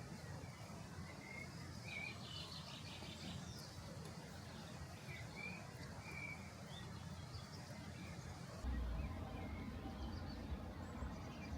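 Birds chirping: short, scattered chirps over a steady low background noise, which gets louder a little before the end.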